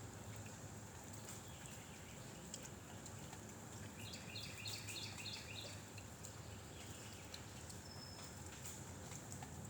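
A bird calling faintly: a quick run of six or seven repeated chirps about four seconds in, then a single short high whistle, over steady outdoor background noise.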